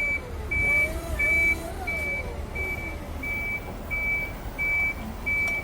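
A vehicle's reversing alarm beeping, one high tone repeating about every 0.7 seconds, over a low steady rumble.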